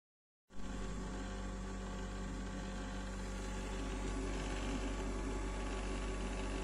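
Steady electric hum of a portable thermoelectric cooler running, its cooling fan and mains hum, starting abruptly about half a second in.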